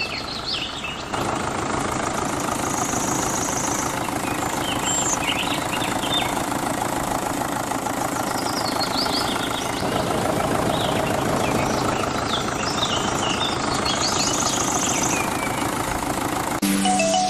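An engine running steadily with a rough, knocking texture, with birds chirping in the background. Music comes in just before the end.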